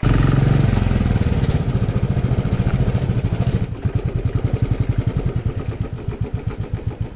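Royal Enfield motorcycle's single-cylinder engine running with a rapid, even pulsing beat. About halfway through, the beat becomes more distinct and slightly slower as the engine eases off.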